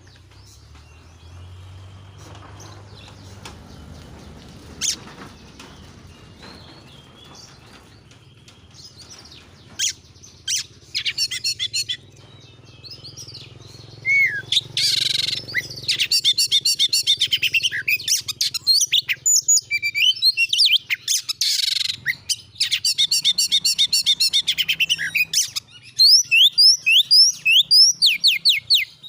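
Oriental magpie-robin (kacer) singing: a quiet start, then from about ten seconds in loud, fast runs of rapid repeated notes and quick rising whistles, the 'gacor nembak' song used to provoke other kacer.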